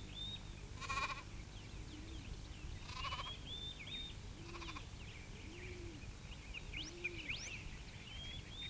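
Sheep bleating three short times over continuous birdsong of quick high chirps.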